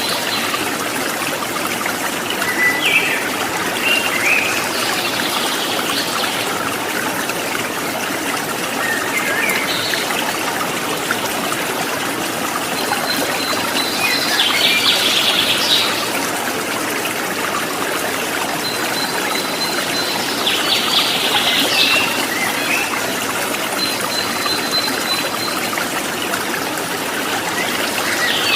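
Water trickling steadily, with small birds chirping now and then over it. Denser bursts of song come about halfway, again about three-quarters through and at the end, with thin high notes held between them.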